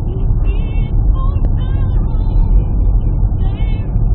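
Steady low rumble of a road vehicle in motion, with short high-pitched warbling sounds over it now and then.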